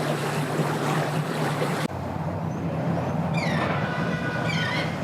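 Boat motor running with a steady low hum under a rushing wash of water and wind; about two seconds in the rush cuts off abruptly, leaving the hum, and a bird starts calling in quick runs of short falling chirps.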